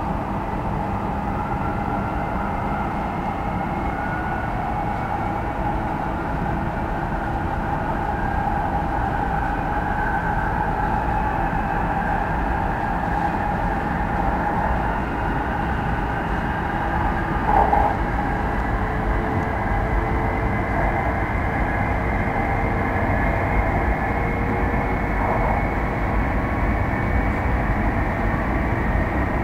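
Running noise of a moving train heard from inside the carriage: a steady rumble with a faint whine that slowly rises in pitch. A brief louder bump comes about 17 seconds in.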